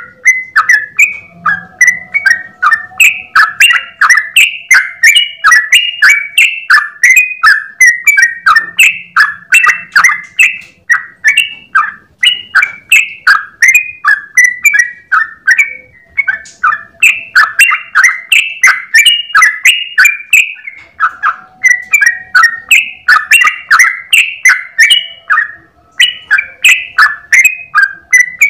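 Yellow-vented bulbul (trucukan) singing a long, rapid run of short chirping notes, about four a second, broken by brief pauses every few seconds.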